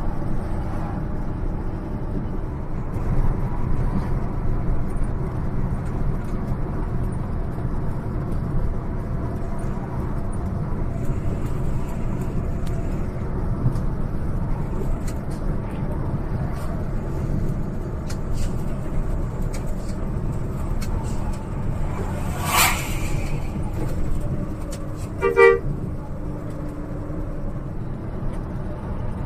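Hino RN285 bus on the road: a steady low rumble of engine and road noise. A horn sounds twice, a short blast about 22 seconds in and a brief, louder toot about 25 seconds in.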